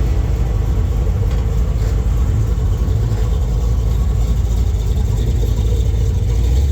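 A classic show car's engine running as it drives slowly past, a steady deep low-pitched sound with no sharp revving.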